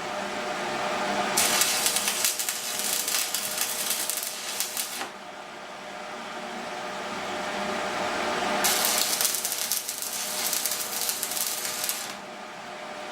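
Electric arc welding on steel: two runs of dense crackling sizzle, each about three and a half seconds long, the first starting about a second in and the second near the two-thirds mark. A faint steady hum runs underneath.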